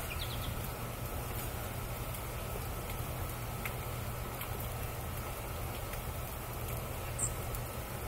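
Small birds giving a few brief, faint chirps: a couple of quick falling high notes just after the start, one short note around the middle, and a sharp high chip near the end, the loudest. Under them runs a steady outdoor hiss and low rumble.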